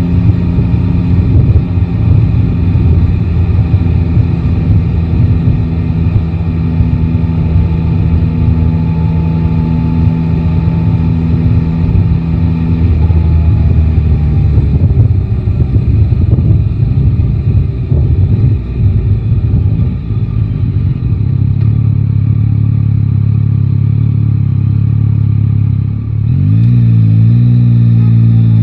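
Yamaha Tracer 9 GT's 890 cc inline-three engine running at a steady pace in city traffic. About 26 seconds in it opens up and accelerates, its pitch rising and climbing again after each gear change.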